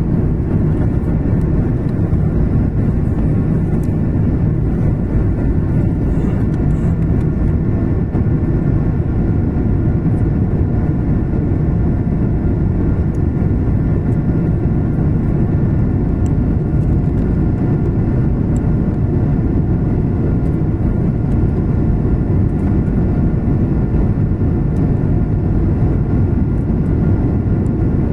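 Korean Air airliner's engines and airflow: a steady low rumble with faint, steady whining tones above it, unchanging throughout.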